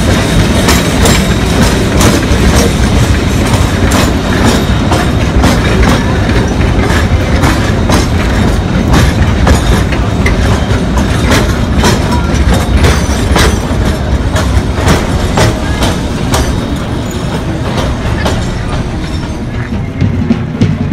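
Open passenger cars of a narrow-gauge steam train rolling past close by: a steady low rumble with irregular clicking and clacking of the wheels over the rail joints.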